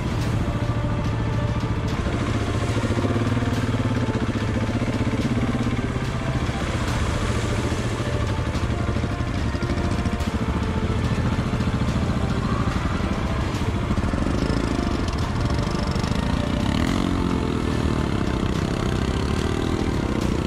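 Single-cylinder KTM enduro motorcycle engine running steadily at low revs, with the revs rising near the end as it pulls away.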